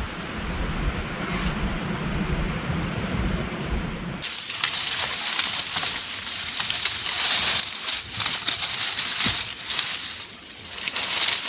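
Low wind rumble on the microphone, then from about four seconds in, an irregular run of crackling and crunching from dry leaves and sticks being handled and stepped on.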